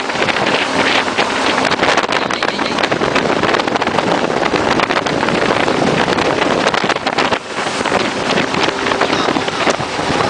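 Jet boat running under way, its engine and rushing water mixed with heavy wind buffeting on the phone's microphone.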